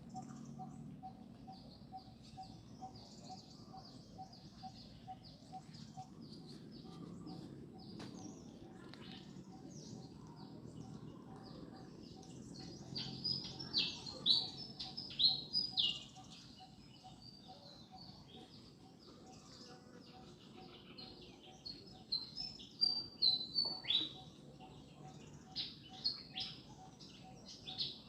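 Birds chirping: short, high chirps throughout, breaking into louder quick clusters around the middle and again near the end.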